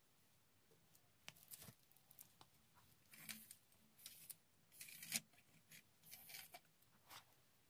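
Faint hand-work sounds: short scrapes, rustles and clicks that come and go for several seconds, typical of cardboard and small parts being cut or handled.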